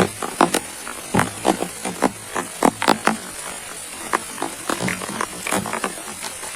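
Steady rain hiss with heavy drops striking close by in an irregular patter of sharp knocks, several a second.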